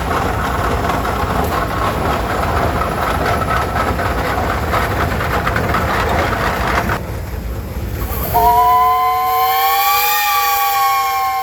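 Steady rushing noise, then about eight seconds in a Minneapolis steam traction engine's whistle blows a three-note chord for about four seconds, its pitch rising slightly and easing back.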